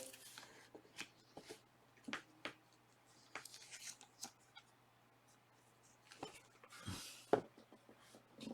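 Quiet room with scattered faint clicks and taps, a couple of sharper knocks about seven seconds in, over a faint steady low hum.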